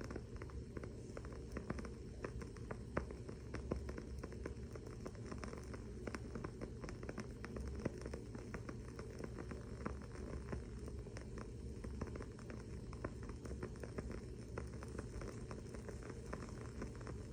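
Wooden-wick candle crackling: a dense, irregular run of small sharp pops and ticks, a few louder than the rest, over a steady low hum.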